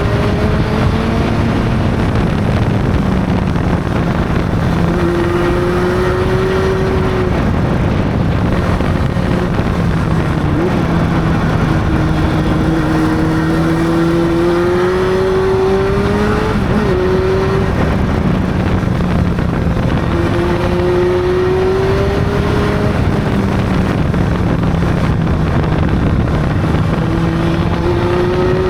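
Honda CB600's inline-four engine under way on a ride, its pitch climbing slowly in several long pulls and dropping back between them, over a steady rush of noise.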